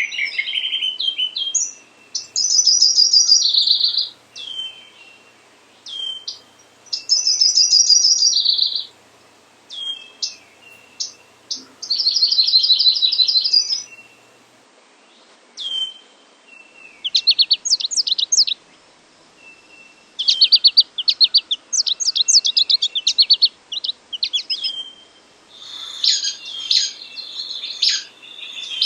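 Recorded songbird songs: a series of rapid, high trilled phrases about two seconds long, repeating roughly every four seconds with short single notes between them, then a denser, more jumbled song near the end.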